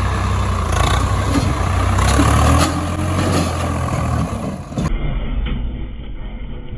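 Tractor diesel engine running hard with a steady low drone that shifts after about two and a half seconds. About five seconds in, the sound cuts to a quieter, muffled recording of engine noise.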